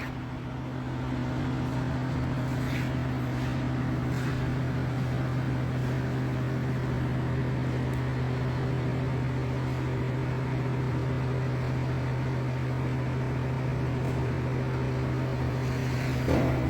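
A woodworking power tool's electric motor running steadily at constant speed, with a low hum.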